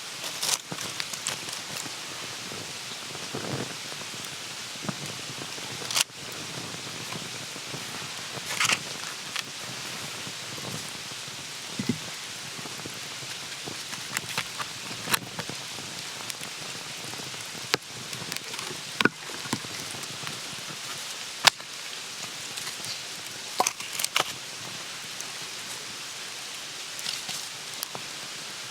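A steady rushing hiss, like light rain, with irregular sharp snaps and clicks scattered through it.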